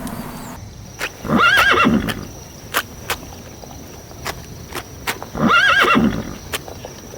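A horse whinnying twice, each whinny about a second long with a quavering pitch that falls away at the end. A few sharp knocks come between the whinnies.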